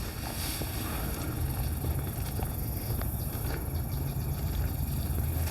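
Steady low rumble of wind and handling noise on a handheld microphone while walking, with a few faint footsteps.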